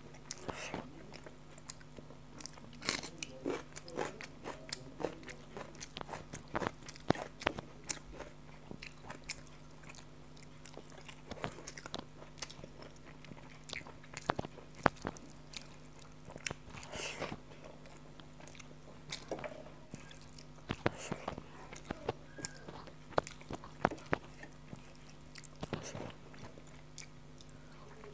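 Close-miked eating sounds of rice and chicken curry eaten by hand: irregular chewing clicks, mouth smacks and bites, over a steady low hum.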